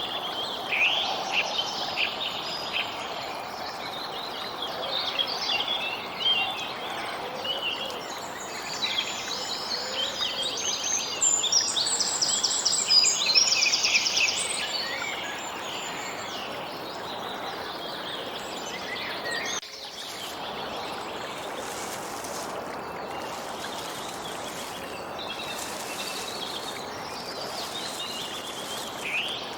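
Songbirds chirping and trilling over a steady background hiss of outdoor ambience. The birds are busiest in the first half.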